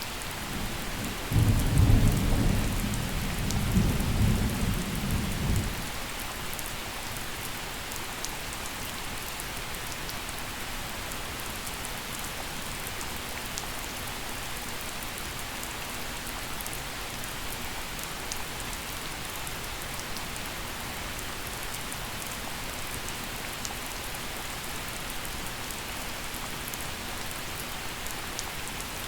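Steady gentle rain falling, with a clap of thunder rumbling low from about a second and a half in and dying away about four seconds later.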